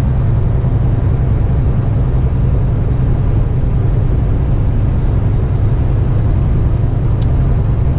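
Steady low rumble of a semi truck's diesel engine and road noise heard inside the cab while driving, with a faint click about seven seconds in.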